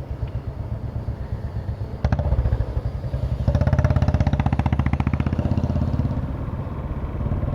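Motorcycle engine running with a rapid, even exhaust beat. It gets louder about two seconds in and louder again about three and a half seconds in, then eases off after about six seconds.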